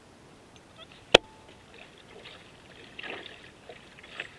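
Kayak paddling on still water: a single sharp knock about a second in, then faint splashes and drips from the paddle.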